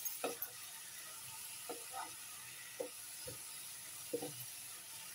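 Grated bottle gourd frying in ghee in a nonstick pan with a faint, steady sizzle. A wooden spatula stirs and scrapes through it in short strokes about every second.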